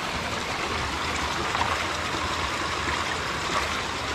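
Fresh water running steadily through trout ponds, an even rushing sound with no breaks.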